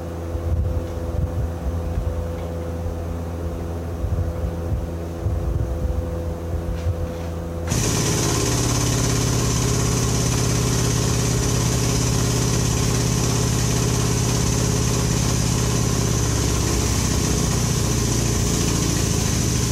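An engine running steadily at idle. About eight seconds in, the sound jumps abruptly to a louder, steadier running sound with a strong hiss.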